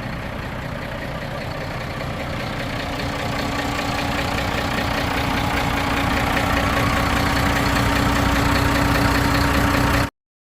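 An engine running steadily and slowly getting louder, with a steady hum joining in a few seconds in. The sound cuts off suddenly near the end.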